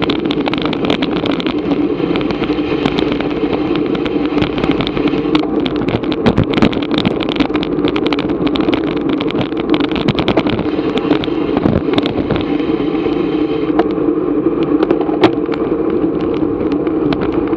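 Steady rush of wind and road noise on a bike-mounted action camera during a bicycle race, with frequent small clicks and rattles from the bike and mount.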